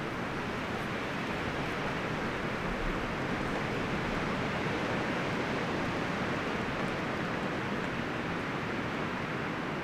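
Wind rustling through forest leaves and branches as a steady hiss, swelling a little midway.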